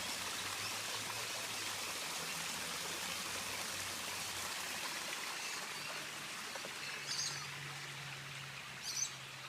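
Garden water feature running, with water trickling and splashing steadily.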